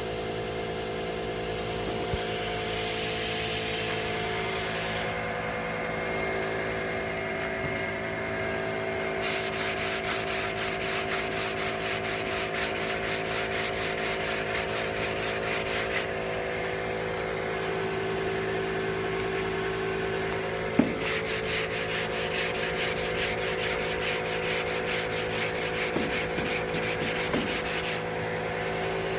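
Hand block-sanding of primer and body filler on a truck's body panel: two long runs of back-and-forth sandpaper strokes, about two to three strokes a second, over a steady hum.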